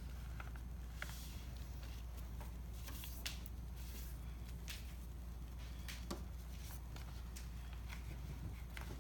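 Paper being handled and creased: scattered soft rustles and small clicks over a steady low hum.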